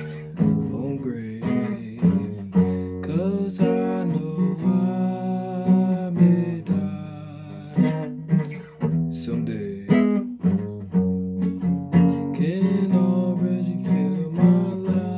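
Guitar being played, with chords strummed and picked in an uneven rhythm and the chord changing every second or so.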